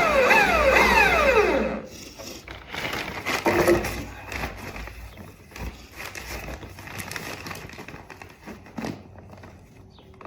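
Power drill drilling a hole, its motor whining and then winding down in pitch over about a second and a half once the trigger is let go. Quieter scraping and knocking follow.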